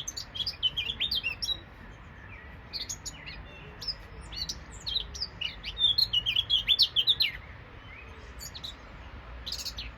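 A songbird singing in a tree: phrases of quick, high chirps and trills, one at the start, a short one about three seconds in, the longest and loudest from about five to seven seconds in, and another starting near the end.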